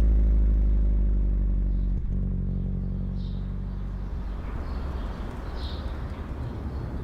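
Subaru Impreza WRX's boxer engine, its steady note getting gradually quieter as the car slows, with a single click about two seconds in; after about four seconds the note gives way to a rougher low rumble.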